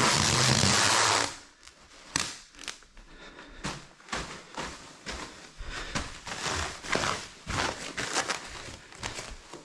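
A loud rushing hiss for about the first second, then a run of irregular crackles, crinkles and light knocks of protective sheet material being handled.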